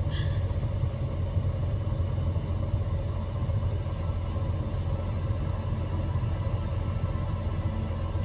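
Steady low rumble of a Scania Irizar i5 coach under way, engine and road noise heard from inside the passenger cabin.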